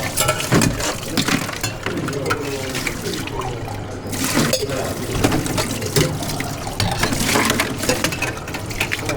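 Liquid being poured into a glass, mixed with short knocks and clinks of bar tools and glassware.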